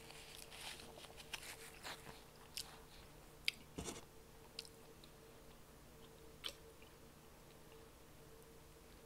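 Faint close-up chewing of a mouthful of food, with soft wet mouth clicks and smacks, busiest in the first few seconds and only now and then after that. A faint steady hum runs underneath.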